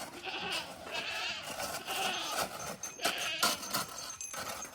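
Several bleats from livestock, short quavering calls repeated a few times.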